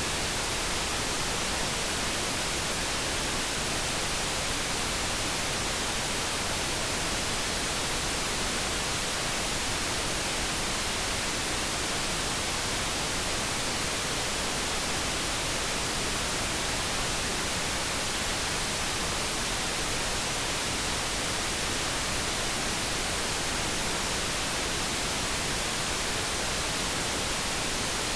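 Steady synthetic noise, an even hiss that does not change; no kettle tone stands out.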